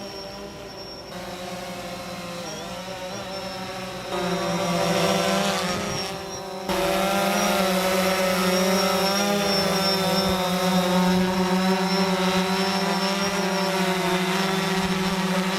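Small multirotor drone flying close by: a steady, buzzing propeller hum whose pitch wavers as it manoeuvres. It gets suddenly louder about four seconds in, dips briefly, then jumps louder again near seven seconds.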